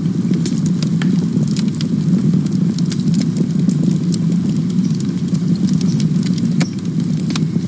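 Wood fire burning: a steady low rush of flames under frequent sharp crackles and pops.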